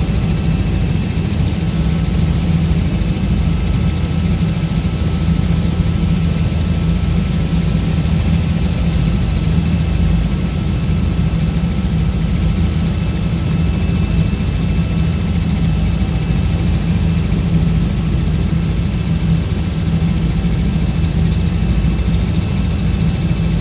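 Robinson R66 helicopter's turbine engine and rotors running steadily: a loud, even low drone with a faint steady high whine above it.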